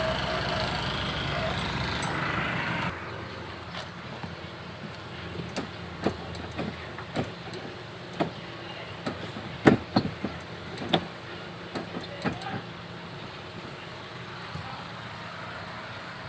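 A steady mechanical noise that cuts off suddenly about three seconds in, followed by scattered light clicks and knocks, a few of them sharper, as of hands working with tools and parts.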